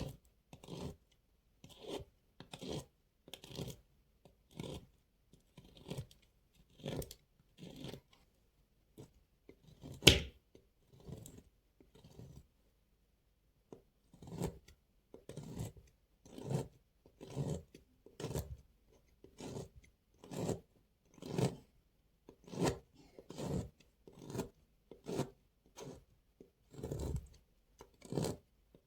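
Knife cutting through a bar of dry soap, one crunchy stroke about every second, sped up to double speed. A sharp knock about ten seconds in is followed by a pause of about two seconds before the cuts carry on.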